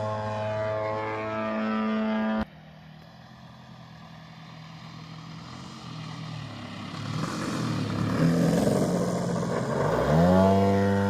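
100cc gasoline engine of a large-scale Hangar 9 RC airplane running at a steady high pitch, cut off suddenly about two seconds in. A fainter, rougher engine sound then builds, and near the end the engine's pitch rises sharply and holds steady.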